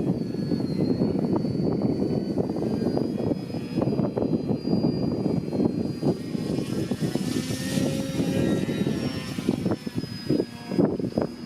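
TechOne Slick radio-controlled model plane's motor and propeller whining in flight, the pitch wavering as the throttle changes, getting louder for a few seconds past the middle as it comes closer. Strong gusty wind rumbles on the microphone throughout.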